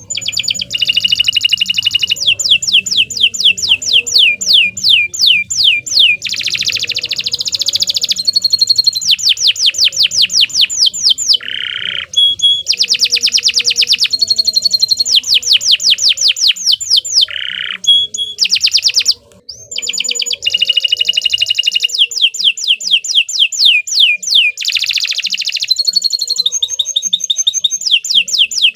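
Domestic canary singing a long, continuous song: rapid runs of repeated falling notes, switching to a new trill every couple of seconds, with a brief break about two-thirds of the way through.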